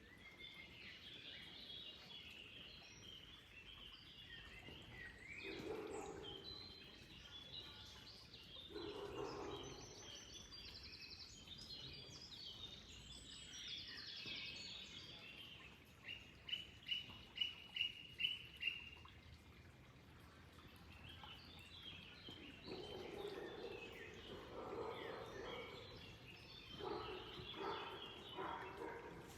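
Several wild birds chirping and singing, fairly faint. About midway one bird gives a run of about seven sharp, evenly spaced notes, the loudest sounds here. Lower-pitched calls come in a few times, more often near the end.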